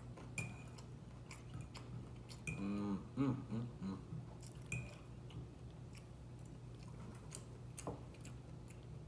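Close-up chewing with soft wet clicks, while a fork clinks against the plate a few times with a short ring. About two and a half seconds in, a brief hum from the eater.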